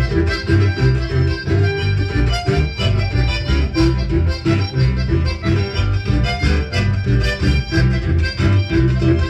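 Band music with accordion over a steady dance beat of bass and drums.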